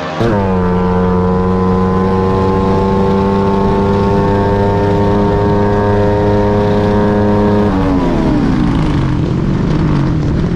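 Drag-racing motorcycle engine held at high revs at full throttle, its note steady. About eight seconds in, the revs fall away steadily as the throttle is closed.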